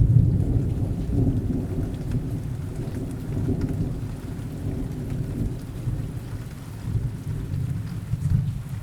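Steady rain with rolling thunder: a low rumble that swells at the start and again near the end, then dies down.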